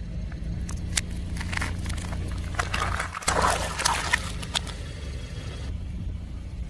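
Car tyre slowly crushing objects: scattered crunches and crackles, thickest in the first half, over the steady low hum of the car's engine.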